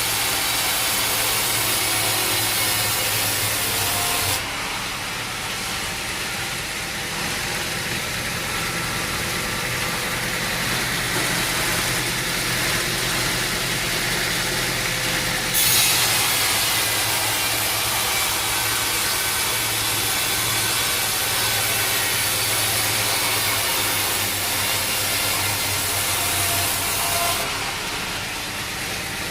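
Sawmill saw cutting through an oak log, with an engine running under the sawing noise. The sawing sound changes abruptly about 4 seconds in, jumps louder and brighter around 16 seconds, and drops back near the end.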